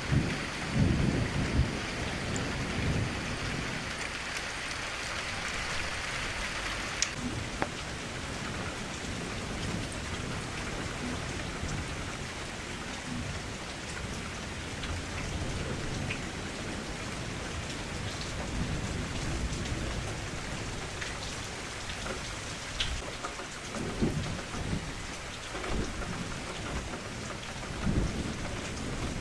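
Rain falling steadily against a window, with low rumbles of thunder about a second in and again near the end. A brighter hiss in the rain drops away about seven seconds in.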